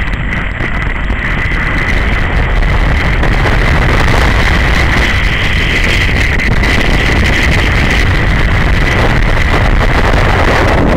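Single-cylinder engine of a BMW G 650 GS Sertao motorcycle running steadily at cruising speed, heard from a camera on the bike, with heavy wind rushing over the microphone and a steady high-pitched whine.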